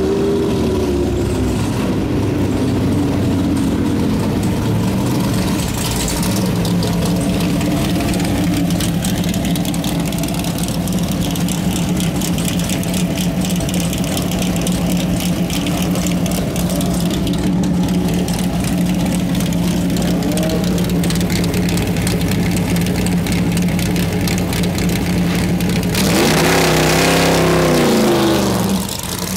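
Greenwood Corvette race car's ZL1 427 aluminium big-block V8 idling steadily through its side exhaust pipes. Near the end the engine is revved up for about two seconds and drops back.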